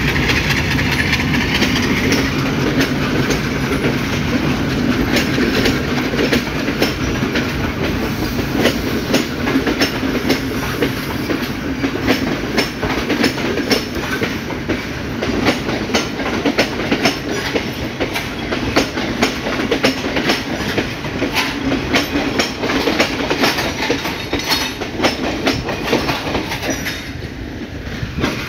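Passenger train carriages rolling past, their wheels clicking over the rail joints in a fast, irregular clatter over a steady rumble. The sound dies down near the end as the last carriage moves away.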